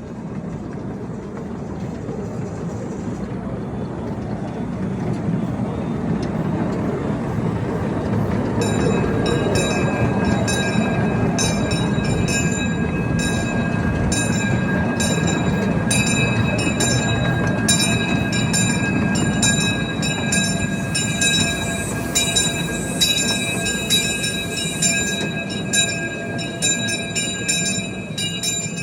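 Miniature ride-on train rumbling along its track, its sound growing louder. About a third of the way in, a steady high-pitched squeal joins, along with rapid, regular clicking of the wheels over the rails.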